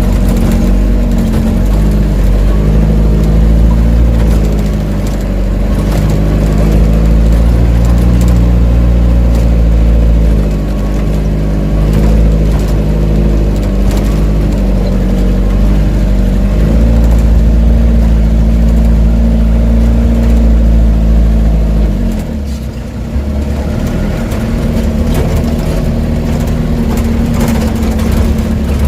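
Loaded dump truck's diesel engine running with a heavy low drone, its pitch shifting a few times. About 22 seconds in it drops to a lower, quieter note.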